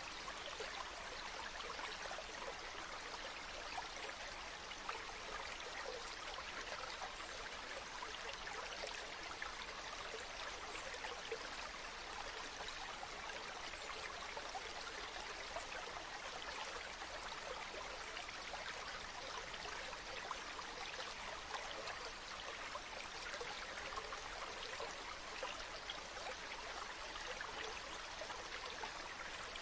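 Small stream babbling steadily, an even rush of running water with fine splashing detail.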